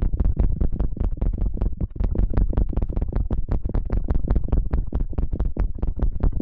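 Rapid, steady scratching strokes, several a second, made close up on an ASMR microphone.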